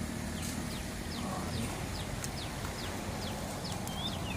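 A small bird repeating a short, high, falling chirp about two to three times a second, over a steady low background rumble.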